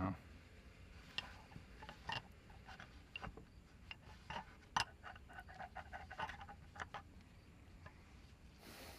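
Scattered, irregular faint clicks and light metallic scrapes of hand tools and parts as a connecting rod cap is worked off the crankshaft of a 3.8 V6 with a spun, knocking rod bearing. The clicks come thicker in the middle seconds.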